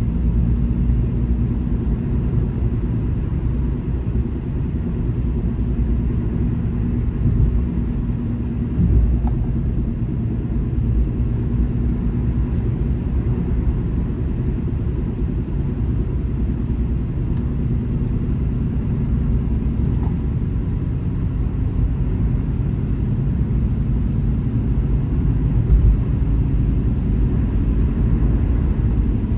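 Steady, muffled road rumble of a car cruising on a highway, heard from inside the cabin, with a couple of soft bumps from the road surface.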